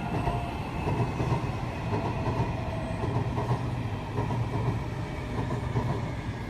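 Steady low rumble, with a faint thin tone near the start.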